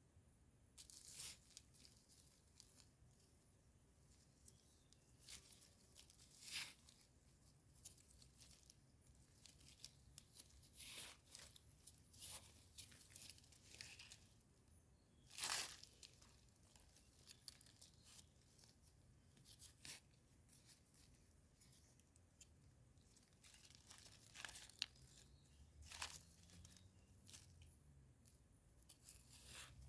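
Scattered short rustling and tearing sounds, a few seconds apart, of termite mushrooms being picked by hand from soil and leaf litter.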